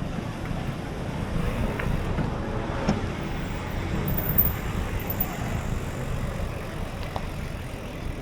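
Wind rumbling on the microphone of a moving bicycle, with road noise and passing traffic.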